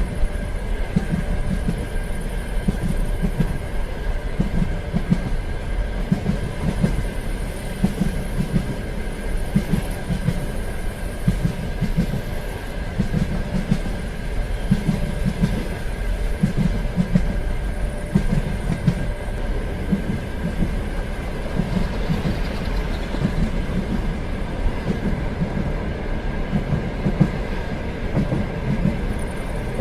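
Train running along the rails, its wheels clattering over rail joints in an uneven, repeating rhythm, over a steady rolling rumble with a thin steady whine.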